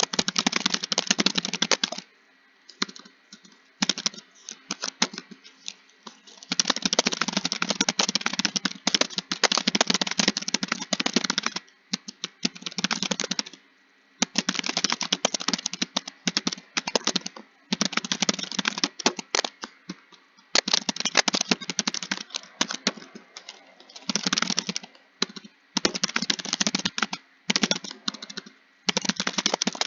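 Typing on a computer keyboard: fast runs of keystroke clicks lasting a few seconds each, broken by short pauses.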